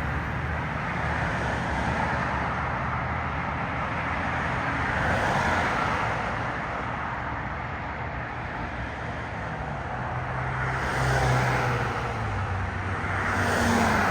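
Mack MRU McNeilus front-loader garbage truck's engine pulling away, a steady low drone with a few changes in pitch. The sound swells a few times.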